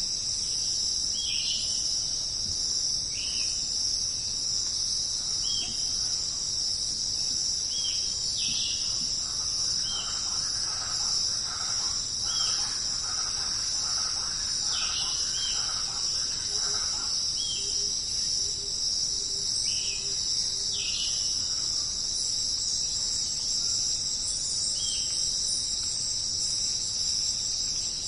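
A dense, steady, high-pitched insect chorus of crickets or cicadas, with short falling chirps repeating every second or two. A softer flurry of other animal calls comes in the middle.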